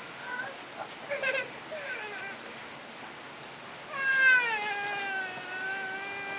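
A few short high-pitched cries, then about four seconds in one long drawn-out cry that falls in pitch and then holds steady.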